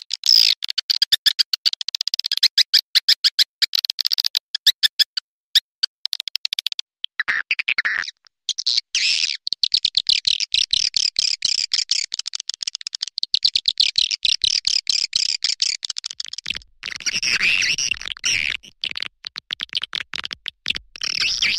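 Swiftlet calls: rapid, dense trains of high chirps and twitters, broken by short pauses, the kind of looped call recording played to lure swiftlets into a nesting house.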